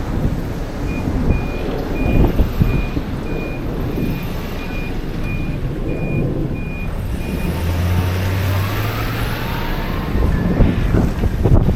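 A vehicle's reversing alarm beeping steadily, about a dozen evenly spaced beeps at roughly one and a half a second, stopping about seven seconds in, over a constant low rumble of street traffic and engines.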